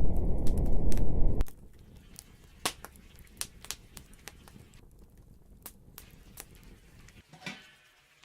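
Campfire crackling with scattered sharp pops, under a loud low rumble that cuts off abruptly about a second and a half in. A short call-like sound is heard near the end.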